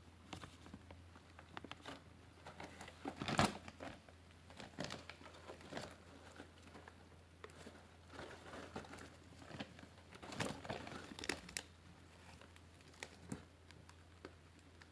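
Dry timothy hay rustling and crinkling as it is handled, in irregular crackly bursts, loudest about three seconds in and again around ten to eleven seconds in.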